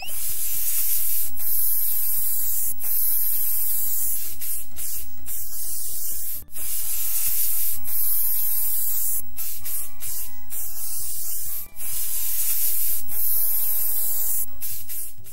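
Spray-paint sound effect for a paint nozzle painting a car: a loud, steady hiss that breaks off briefly twice.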